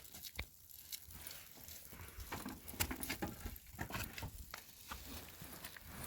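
Irregular light tapping and rustling, many small clicks at uneven intervals.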